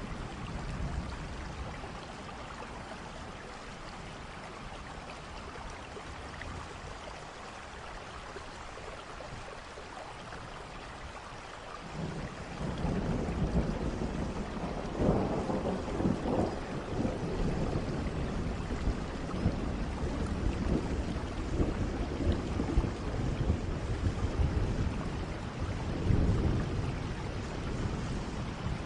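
Steady rain with rolling thunder. The rain hisses evenly at first; a little less than halfway through, low thunder starts to rumble in, with the loudest peal a few seconds later and another swell near the end.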